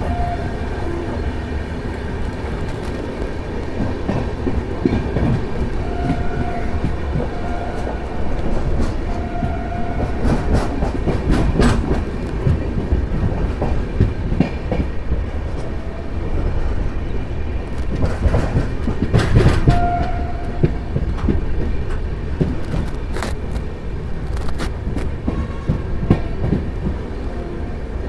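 Jan Shatabdi Express passenger train running on the line: a steady rumble with clusters of wheel clicks over the rail joints. Short high tones come and go now and then.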